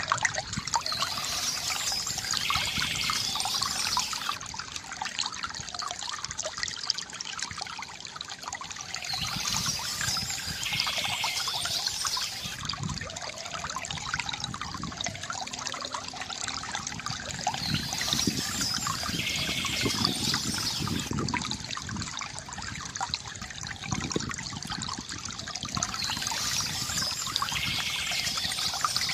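Water trickling and gurgling steadily from a bamboo fountain, with bursts of birds chirping that recur about every eight or nine seconds.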